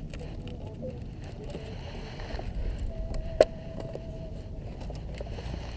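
Metal flashing being worked into place: a few small knocks and one sharp tap a little past the middle, over a low steady rumble.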